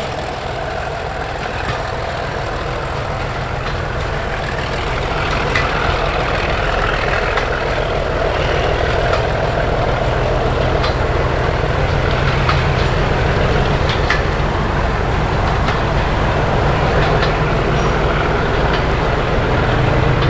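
Diesel locomotive engine running, growing louder over the first five seconds and then holding steady.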